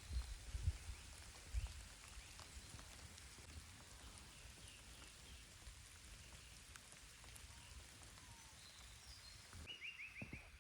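Faint steady outdoor hiss, like light rain, with a few soft low thumps in the first two seconds. Faint bird chirps come through it, ending in a short falling trill near the end.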